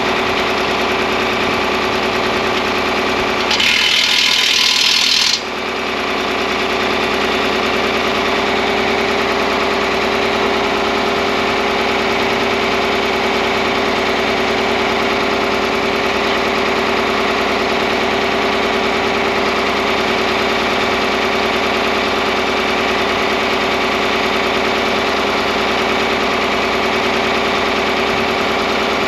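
John Deere 4010 tractor engine idling steadily. About four seconds in, a loud hiss cuts across it for a couple of seconds and stops abruptly.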